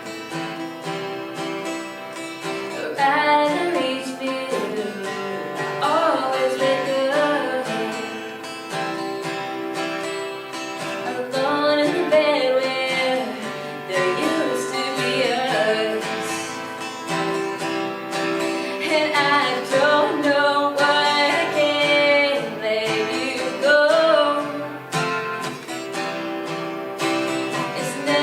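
A woman singing a song to her own strummed acoustic guitar, the voice coming in phrases with stretches of guitar alone between them.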